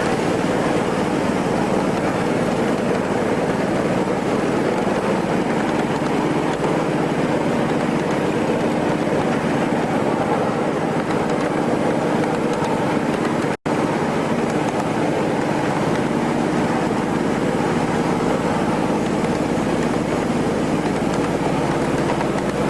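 Steady mechanical running noise, like an engine, with a few low hum tones. It cuts out for an instant a little over halfway through, a break in the recording.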